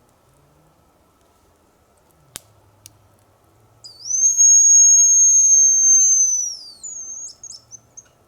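Hazel grouse decoy whistle blown close by: one long, thin, steady high whistle of nearly three seconds, then a short broken trill of quick high notes, imitating the hazel grouse's call to draw in a territorial male. A sharp click comes a little earlier.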